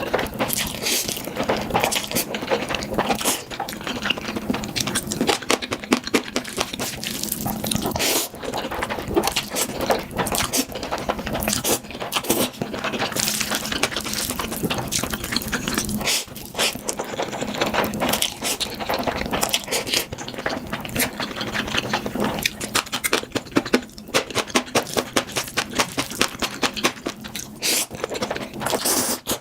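Close-miked mukbang eating sounds: continuous rapid wet chewing and mouth smacks, with crunchy clicks.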